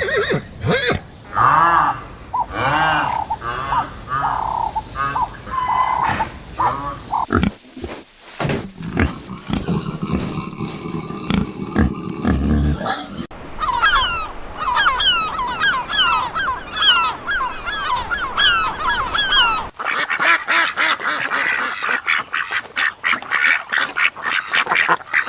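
Farm animal and bird calls, several kinds one after another: repeated short pitched calls about twice a second in the first seconds, then many rapid high falling chirps in the middle, then a dense run of fast clicks near the end.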